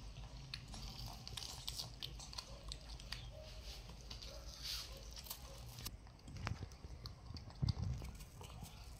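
A pet macaque and a toddler chewing and biting into juicy watermelon, with many small mouth clicks. A low thump comes about three-quarters of the way through.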